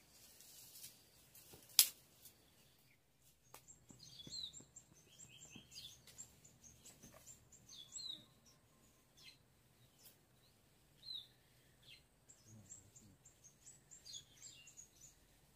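Small birds chirping in quick series of short, high notes. About two seconds in, one sharp click is the loudest sound.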